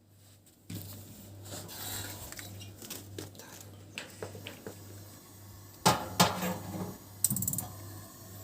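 Metal clinks and clatter from a gas stove's burner parts being handled, with a few louder knocks near the end, over a steady hiss that starts just under a second in.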